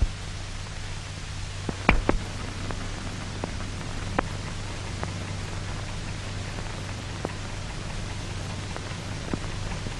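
Steady hiss and low hum of an old optical film soundtrack, broken by scattered crackles and pops, the loudest about two seconds in.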